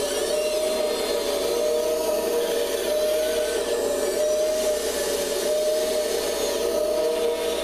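Electric drive motors and servos of a Kabolite 970 all-electric RC excavator running under load: a steady motor whine over a rough gear noise, with fainter higher whines that waver up and down as the functions are worked.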